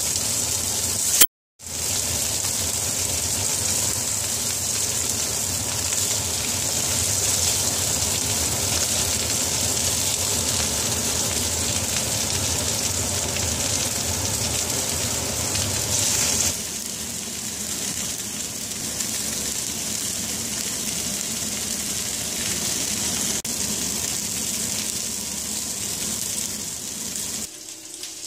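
Chicken thighs frying in their rendered fat on a hot griddle: a steady sizzle, broken off briefly about a second in and a little quieter from about halfway on.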